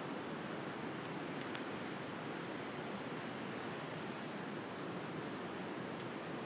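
Steady wash of ocean surf, with a firewood bonfire crackling over it in small, scattered sharp pops.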